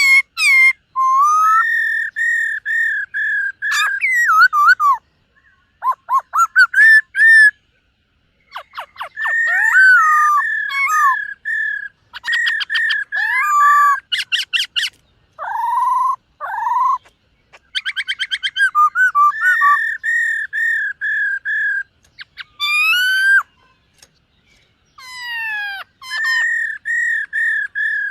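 Black-throated laughingthrush singing loud whistled phrases: runs of rapid repeated notes, sweeping up-and-down whistles and fast rattling trills, broken by short pauses.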